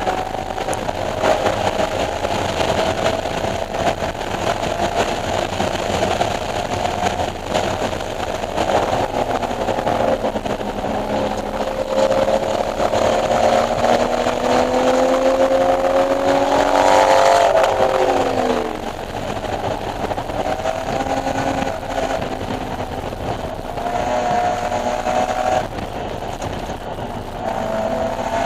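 BMW E46 M3's S54 straight-six driven hard on track, its pitch rising and falling with throttle and gear changes. About ten seconds in it pulls in one long climb in pitch, then drops away sharply a little past halfway as the throttle comes off.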